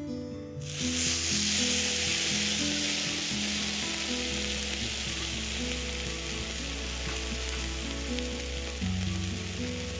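Food frying, a steady loud sizzle that starts suddenly less than a second in.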